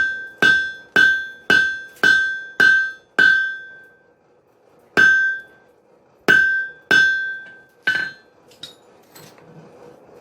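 Blacksmith's hammer striking hot wrought iron on an anvil while rough-forging an axe body, each blow ringing. A run of seven blows at about two a second, a pause of over a second, four more blows, then a few lighter taps.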